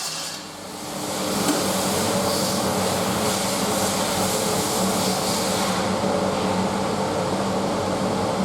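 SsangYong Korando C 2.0 XDi four-cylinder turbodiesel engine (671.950) running steadily on a test stand, with a constant pitch.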